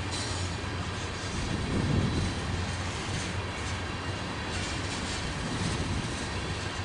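Freight train of empty crude oil tank cars rolling past, steel wheels on the rails making a steady rumble with a low hum and faint wheel noise. It swells briefly about two seconds in.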